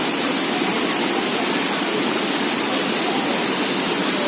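Steady rush of water from the Krangsuri waterfall.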